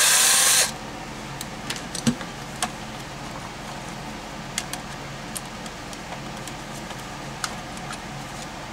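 A short loud burst of noise, then scattered light clicks and taps of hands and small tools working on the drain auger's housing as it is opened, over a steady low hum.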